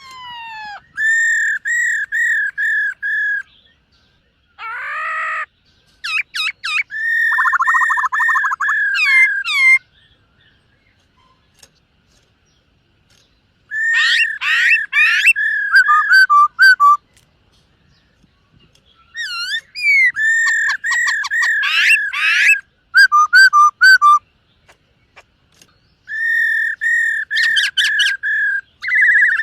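Black-throated laughingthrush singing in loud bouts of repeated, clear whistled notes, each phrase a quick run of the same note, with short pauses between bouts.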